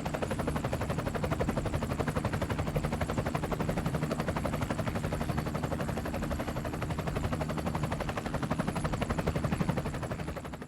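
Helicopter rotor chopping: a steady, rapid, even beat of blade thuds, fading out near the end.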